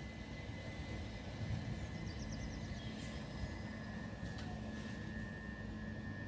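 Electric train at the station: a steady low rumble with a thin, constant high whine.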